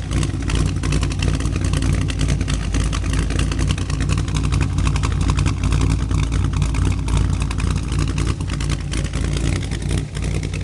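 Cadillac CTS-V's cammed LS2 V8 idling with a choppy, uneven pulse through long-tube headers and Cherry Bomb mufflers, still warming up after a cold start.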